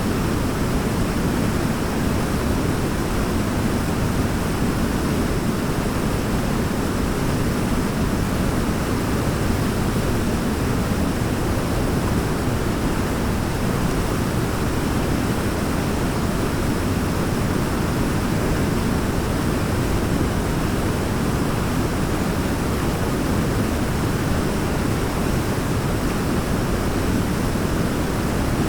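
Waterfall rushing steadily, a deep, even noise that never changes.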